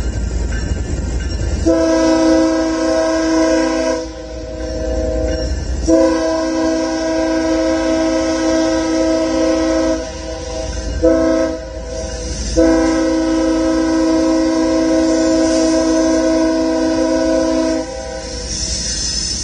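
BNSF freight diesel locomotive's multi-chime air horn sounding the grade-crossing signal, long, long, short, long, over the low rumble of the passing train.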